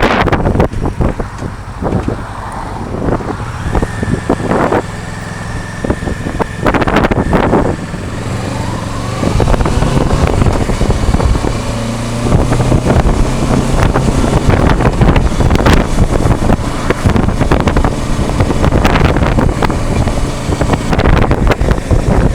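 Kawasaki Versys 650's parallel-twin engine running as the motorcycle is ridden, with loud wind buffeting on an action-camera microphone that has no external mic.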